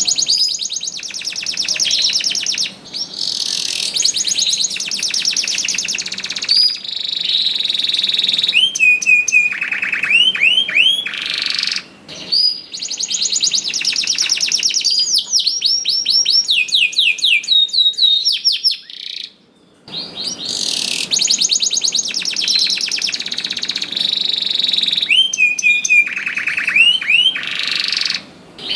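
Domestic canary singing a long, loud song of fast trills and rolls, twice broken by runs of quick rising whistled notes. There is a brief break about twelve seconds in and a short pause about two-thirds of the way through.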